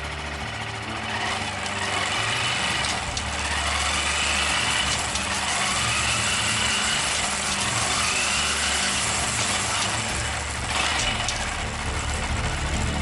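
Honda Grom's single-cylinder engine running, its pitch rising several times in a row through the middle stretch.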